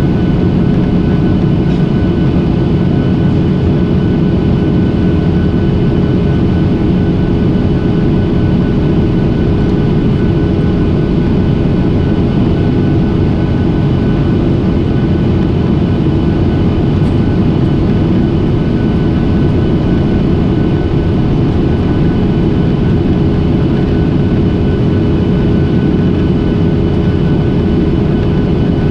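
Steady airliner cabin noise: engines and rushing air heard from inside the passenger cabin, a constant low rumble with a few steady whining tones on top.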